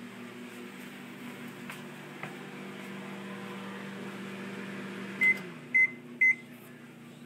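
Microwave oven running with a steady hum, which winds down about five seconds in as it is switched off, with three short high beeps about half a second apart.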